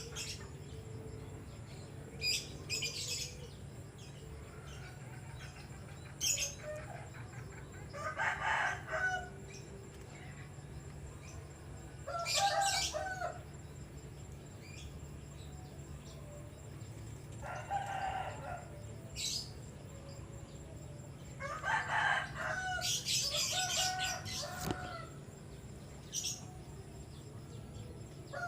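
Domestic chickens clucking and crowing now and then, about half a dozen calls, with short thin high-pitched chirps from a small bird in between.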